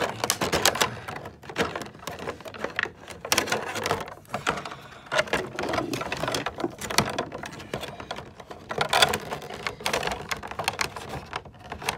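Stretchy plastic packaging being pulled and peeled off an action figure accessory by hand, crinkling and crackling in irregular bursts of rapid clicks.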